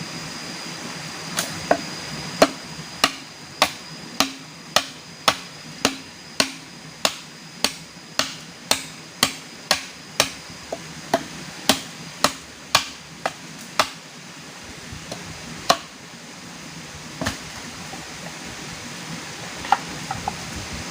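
A hand tool striking repeatedly in an even rhythm, about two sharp blows a second for some twelve seconds, then a few scattered blows, over a steady hiss.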